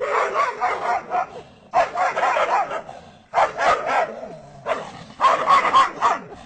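A dog yapping in four rapid bursts of quick, repeated yips with short pauses between them.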